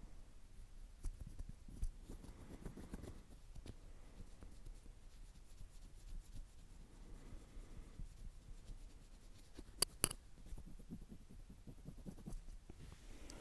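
Soft, irregular ASMR scratching and rubbing close to the microphone, with two sharp clicks in quick succession about ten seconds in.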